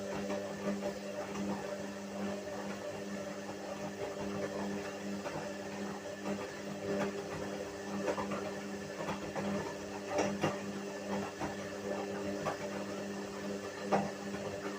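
Whirlpool washing machine running, a steady motor hum with light knocks now and then, a sharper one about ten seconds in and another near the end.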